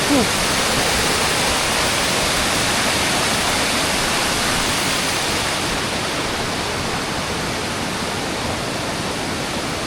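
Steady rush of a large waterfall's falling water, heard close up from the top of the falls.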